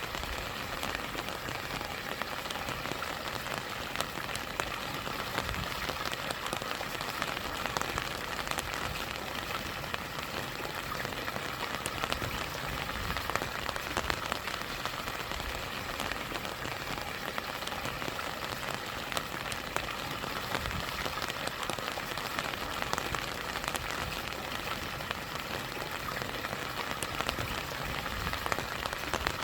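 Steady rain falling over the rush of a stream and small waterfall, a continuous hiss of water flecked with many individual drop strikes.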